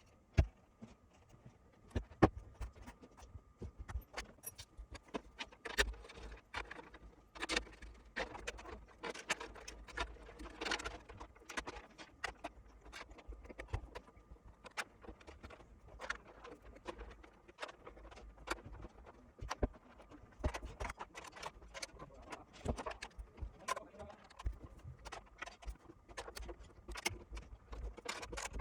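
Quiet, irregular clicks, knocks and light rattling, like objects being handled, with a few sharper knocks early on and denser rattling in the middle and near the end.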